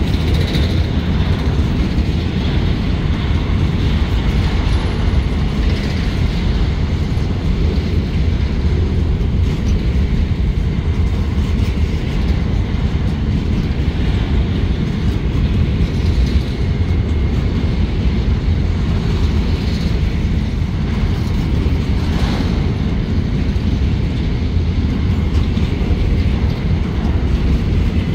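Freight train of covered grain hopper cars rolling past close by: a steady low rumble of steel wheels on the rails, with a few sharper clacks from the wheels over the rail joints.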